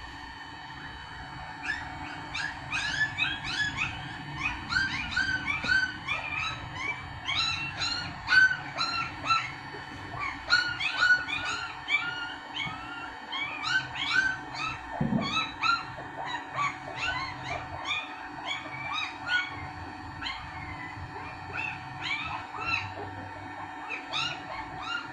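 Steady whir of a hot air rework station's blower, with a long, rapid run of short, rising animal calls starting about two seconds in and carrying on over it. A single low thud comes about midway through.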